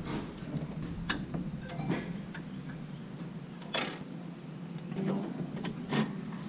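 Scattered light metallic clicks and clinks of hand tools and engine parts as the carburetor is unbolted, about five at irregular intervals.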